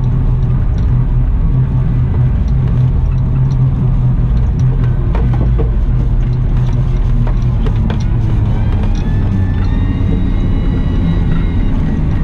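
Cat 972M XE wheel loader's diesel engine running steadily under work, with a few knocks about halfway through. A rising whine comes in about two-thirds of the way through.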